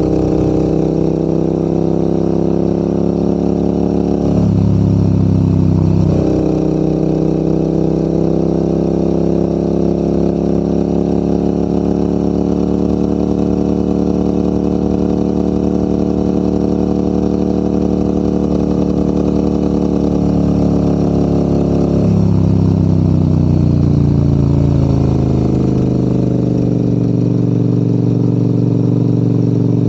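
Large adventure motorcycle's engine pulling uphill under way. Its pitch dips sharply about four seconds in and comes back up a couple of seconds later, then falls away after about twenty-two seconds and settles lower as the revs come down.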